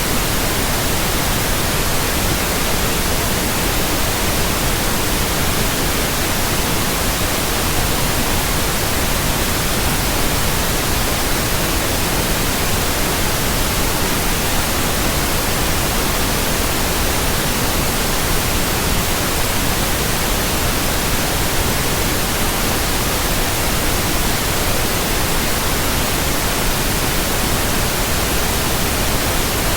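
Steady synthetic white noise: an even, unchanging hiss across the whole range, with no events or variation.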